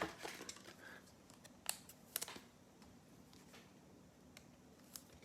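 Faint, scattered clicks and slides of football trading cards being handled and flipped through.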